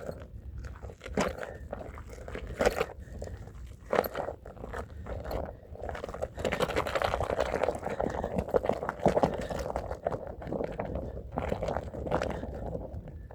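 Stiff hand brush scrubbing the fibres of a rug, with scattered separate strokes at first, then fast continuous scrubbing from about halfway to near the end.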